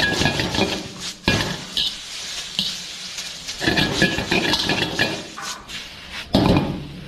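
Metal ladle scraping and clinking against a wok as noodles are stir-fried, in irregular strokes with the sizzle of frying underneath.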